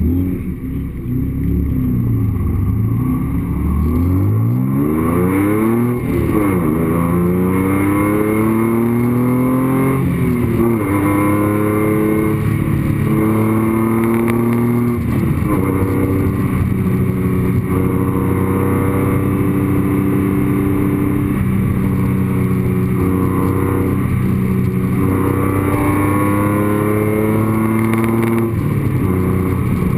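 Honda NSX V6 engine heard close up from the engine bay, revving up through the gears: the pitch climbs and drops sharply at each of three upshifts, then holds a steadier speed with small dips.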